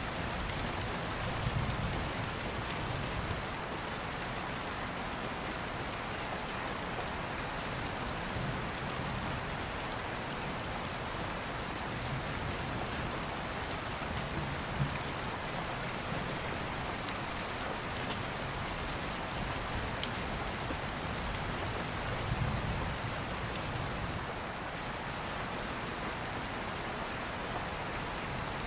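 Steady heavy rain falling, with a few soft low rumbles of distant thunder and occasional sharp crackles from an open wood fire.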